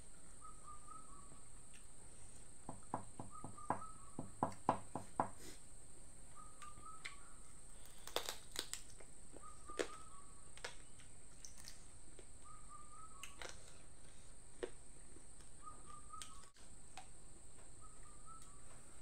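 A bird repeats a short call every few seconds over a steady high-pitched whine. A quick run of crisp clicks comes about three seconds in, with a few more single clicks later.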